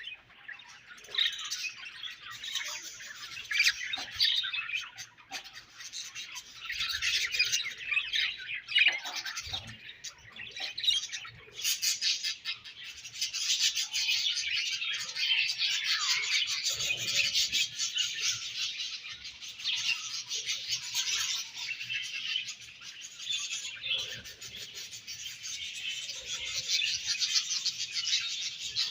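Several budgerigars chirping and chattering continuously, a dense warbling babble that grows busier and steadier about twelve seconds in.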